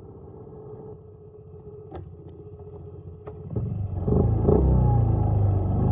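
Dirt bike engine running low and quiet, then revving up hard about three and a half seconds in, its pitch rising and falling as the throttle is worked.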